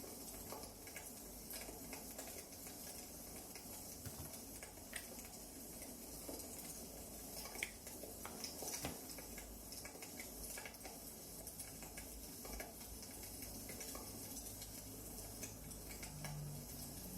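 Wood fire crackling: faint, irregular small crackles over a steady low hiss, with a couple of sharper pops near the middle.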